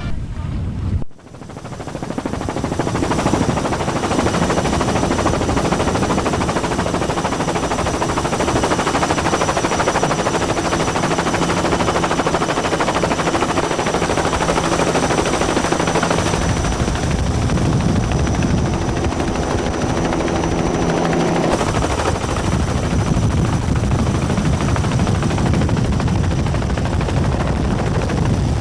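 Helicopter running overhead, a dense steady rotor chop and engine noise with a thin high whine above it. The sound shifts in tone twice in the second half.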